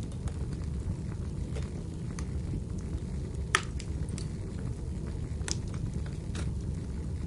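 Wood fire burning in a fireplace: a steady low rumble with scattered crackles and pops from the burning firewood, one sharp pop about halfway through.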